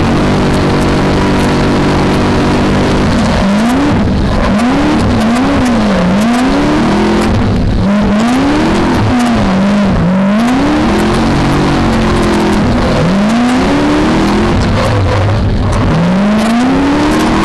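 V8 engine of a BMW E30 drift car held at a steady high pitch for about three seconds, then revving up and dropping back over and over, roughly once a second, as the car is drifted.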